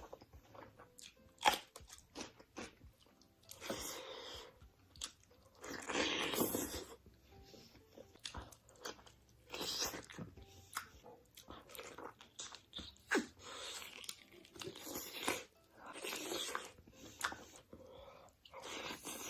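Close-miked crunchy bites and chewing of food, a loud crunch every second or two among smaller crackles.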